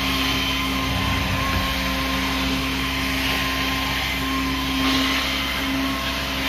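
Carpet-cleaning vacuum equipment running steadily, a constant drone with a held tone through it.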